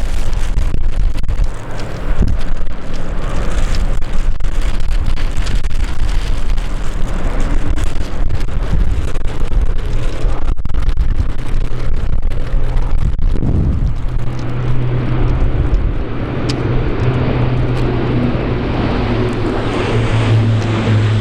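Strong gusty wind buffeting the microphone. About two-thirds of the way in, a steady low propeller drone comes in and grows: the Dash 8-400's turboprops running up to takeoff power.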